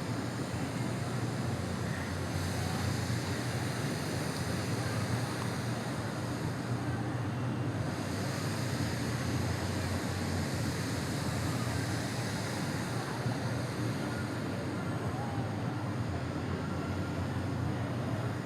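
Steady outdoor background noise with wind rumbling on the microphone and no music playing: the dance track has failed to start because of a sound-system problem.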